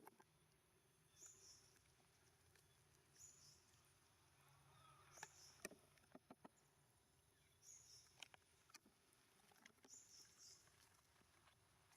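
Near silence, with a faint short high chirp repeating about every two seconds and a few soft clicks.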